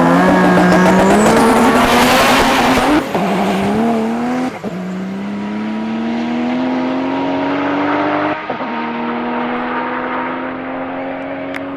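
Drag-racing car accelerating hard down the strip, its engine pitch climbing and dropping back at gear changes about three, four and a half and eight seconds in. Loudest in the first few seconds as it passes, then fading as it pulls away.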